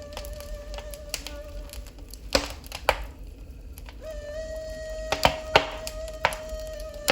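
Wood fire in a fireplace crackling, with several sharp pops. A steady high whistling tone is held over it, breaks off for a few seconds in the middle and then returns.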